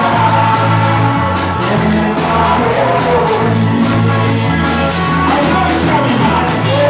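Live church worship music: a band with a moving bass line and a steady drum beat, with voices singing over it.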